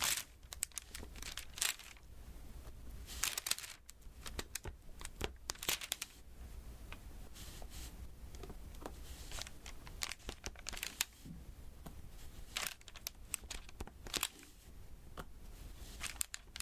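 Close-up sticky, crackling handling sounds of a diamond painting canvas: irregular short clicks and brief peeling or tearing crackles.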